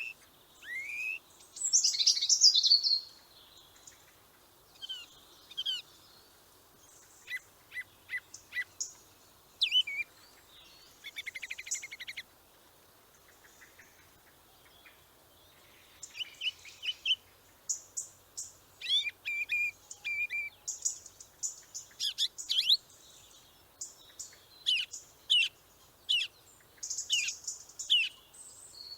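Small birds chirping and calling in scattered bursts: short rising whistles, quick chirps and rapid buzzy trills, with brief pauses between.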